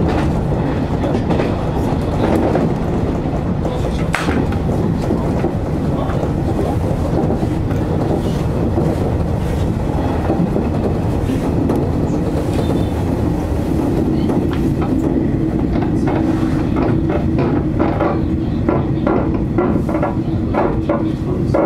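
Electric train running along the track, heard from inside the front car: a steady rumble of wheels on rail. About two-thirds of the way through a steady hum comes in and wheel clicks over the rail joints grow more distinct as the train runs into a station.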